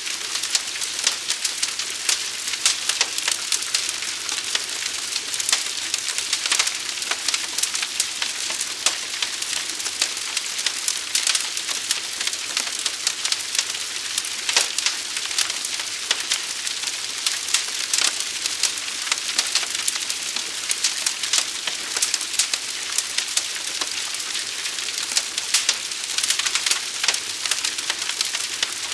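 Forest fire burning: a dense, steady crackle of many sharp pops and snaps over a continuous hiss, mostly high-pitched.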